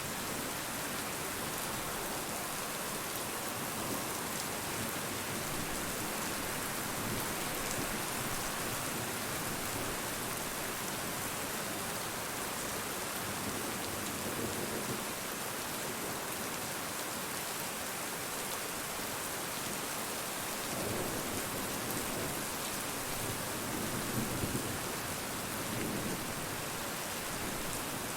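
Steady rain falling as a dense, even hiss, with a few low rumbles about halfway through and again near the end.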